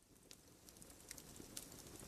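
Wood campfire crackling faintly, with scattered sharp pops over a low hiss, fading in and growing slowly louder.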